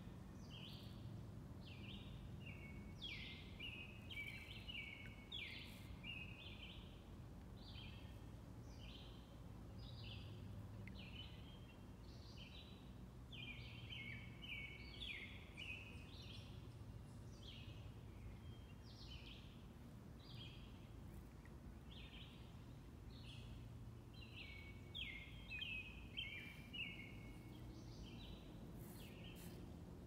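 Birds singing: a steady string of short whistled notes, each sliding down in pitch, with quicker runs of notes a few times, over a faint low rumble.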